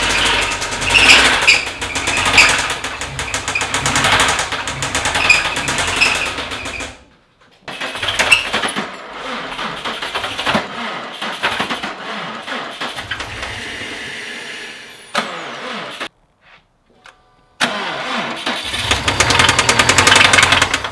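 Subaru turbocharged flat-four engine being cranked over on the starter in several spells, with a rhythmic pulse of the turning engine. The owners conclude the engine has jumped timing and bent a valve.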